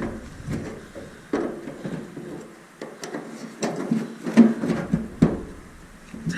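Irregular clicks, knocks and creaks of metal as a chain breaker is worked against a #80 roller chain to press a link pin out.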